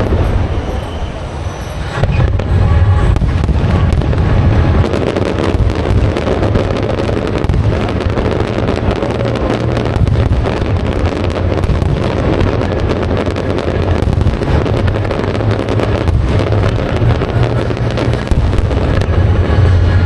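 Aerial fireworks display: a dense, continuous barrage of shell bursts, with many sharp bangs and crackling over a low booming rumble. It eases briefly near the start, then grows thicker.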